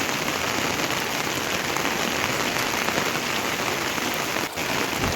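Heavy rain falling steadily, a dense even hiss of drops; it briefly dips about four and a half seconds in.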